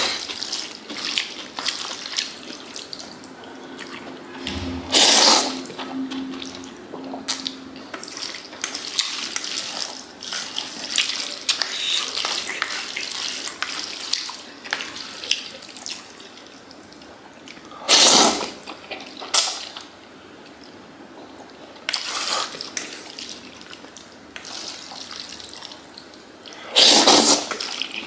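Kitchen sounds while preparing noodles: water running from a tap in short, loud bursts, four times, with small clinks and rustles of handling in between.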